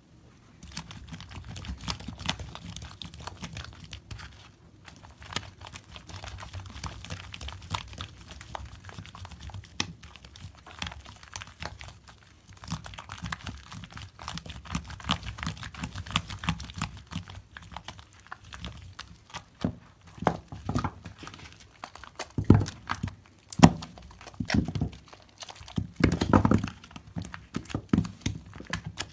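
Hands squeezing and working thick soap lather, a continuous fine crackling of popping foam. From about two-thirds of the way in come louder, separate wet squelches.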